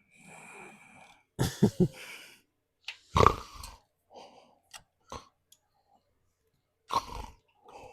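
A few short, throaty vocal sounds, grunt-like, about a second and a half in and again later, with scattered small clicks and knocks between them.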